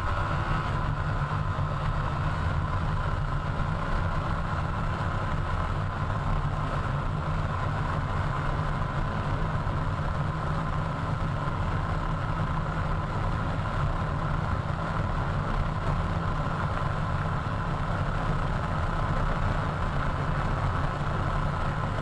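TVS Apache RR 310 ridden at a steady speed: the engine runs evenly under heavy wind noise buffeting the microphone.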